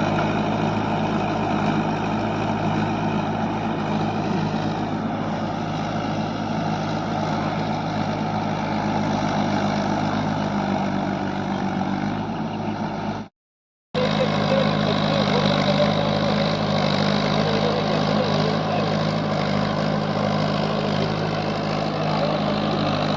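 Mahindra 475 DI tractor's diesel engine running steadily under load. The sound cuts out completely for about half a second a little past halfway, then comes back slightly louder.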